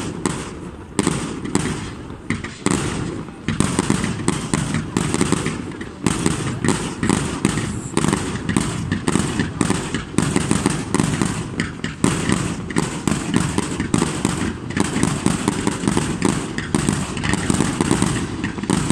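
Fireworks display: separate bangs at first, then from about four seconds in a dense, nearly continuous barrage of bangs and crackling.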